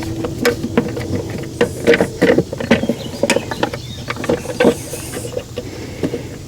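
Irregular clinks and knocks of hand tools and metal parts being handled and fitted during reassembly of a generator engine, over a faint steady hum.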